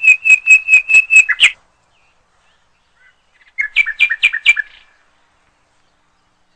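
A songbird singing two short phrases: a run of about eight clear, evenly spaced notes, then after a pause of about two seconds a quicker, chattering phrase.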